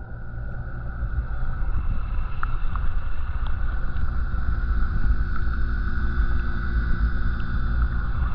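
Muffled low rumble of water moving around a camera held underwater in a pond, with a faint steady hum over it.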